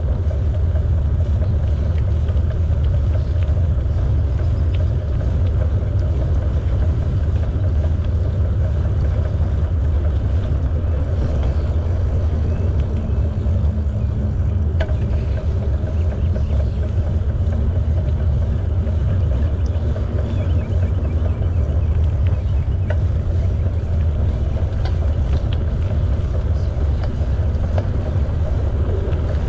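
Wind buffeting the microphone of a camera riding along on a moving bicycle: a steady, loud low rumble that doesn't let up.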